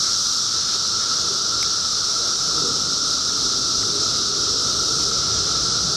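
Dense, unbroken chorus of periodical cicadas: a loud, steady high-pitched hiss with a lower, steady drone beneath it.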